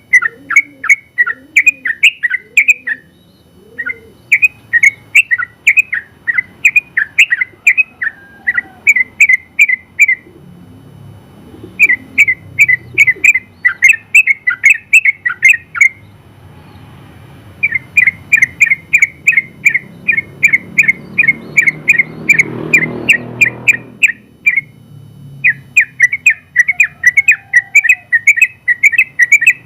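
Yellow-vented bulbul (trucukan) singing its long 'ropel' song: long runs of rapid, repeated bubbling notes, broken by a few short pauses.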